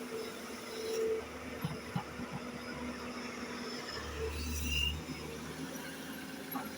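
Excavator's diesel engine running steadily, with a few sharp knocks about two seconds in and a louder low rumble about four seconds in as it works coal.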